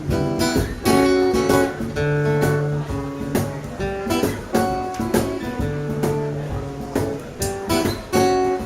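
Acoustic guitar strumming and picking an instrumental passage of a country song, with a cajon tapping out the beat underneath.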